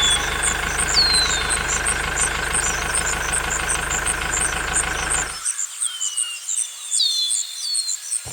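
Small engine running steadily with an even knock, cutting off abruptly about five seconds in. Short high falling chirps sound over it and after it.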